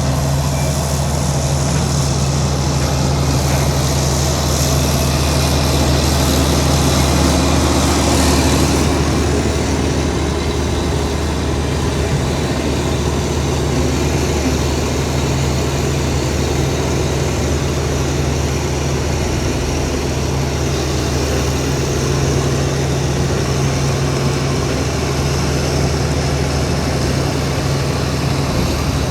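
Heavy diesel earthmoving machinery engine running steadily at a low, even pitch, a little louder for a few seconds early in the stretch.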